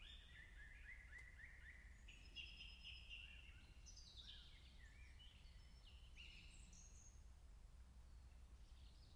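Very faint bird calls: a run of short chirps and quick trills, some sliding in pitch, over a low steady hum.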